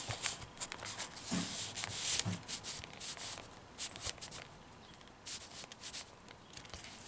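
Paper rustling and rubbing as the pages, pockets and cards of a handmade junk journal are handled, with irregular small taps and slides.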